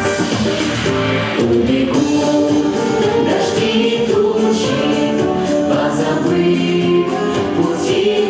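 Group of voices singing together over an instrumental backing track with a steady beat.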